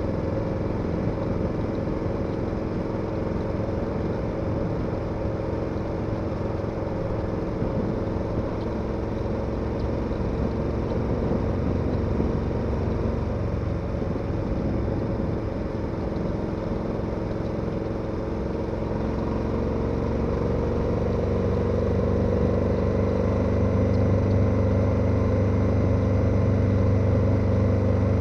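KTM 1290 Super Adventure's V-twin engine running steadily on the move; over the last third the revs rise gradually and it grows louder.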